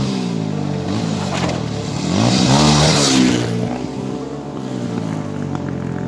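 Off-road vehicle engine revving up and down under load on a steep climb, loudest for about a second and a half in the middle.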